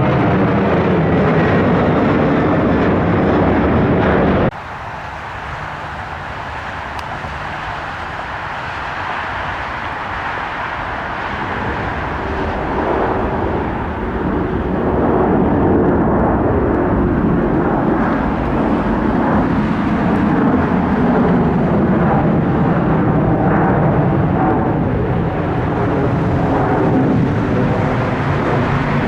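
Airplane engine noise, loud and steady, cut off abruptly about four and a half seconds in and replaced by another aircraft's engine sound that builds gradually back to full loudness.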